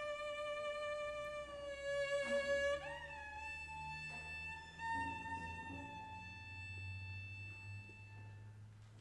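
Violin playing slow, held notes over a low sustained accompaniment. The final note fades away near the end.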